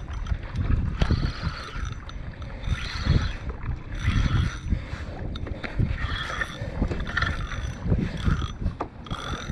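Fishing reel being cranked in with a small fish on the line, its winding coming in repeated strokes about once a second over a steady low rumble.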